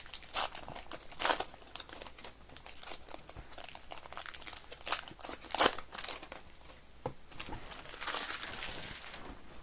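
Plastic packaging crinkling and tearing in irregular bursts as sealed trading-card product is opened by hand, with a longer stretch of rustling near the end.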